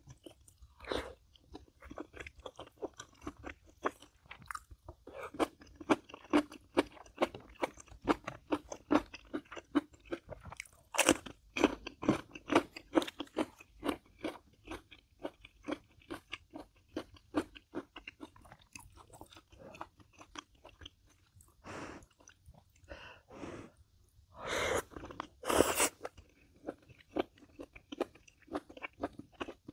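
A person chewing crunchy food in many quick, crackly crunches, with two longer, louder noises a few seconds before the end.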